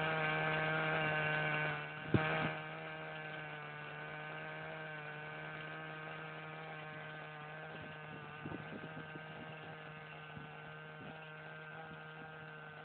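Leo GP15 RC helicopter's nitro glow engine running at a steady pitch, with a humming whine. It drops in level about two seconds in, with a sharp knock just after, and a few faint knocks follow later.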